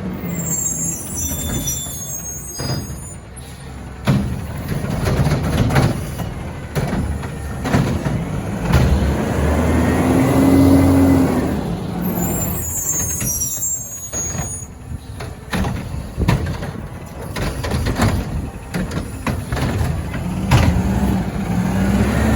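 Garbage truck's diesel engine running, with two sharp hisses of its air brakes, clanks and knocks of the bin being handled, and the engine speeding up briefly about ten seconds in and again near the end.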